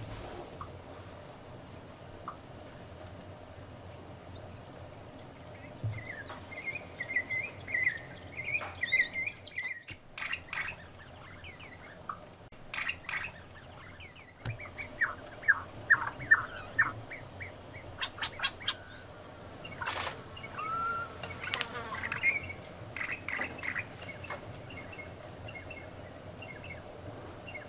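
Wild birds calling: bursts of chattering and chirping, with runs of quick falling notes, over a faint steady background.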